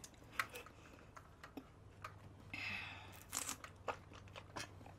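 Faint chewing of bread, with soft mouth clicks and smacks and a short breathy rush about halfway through.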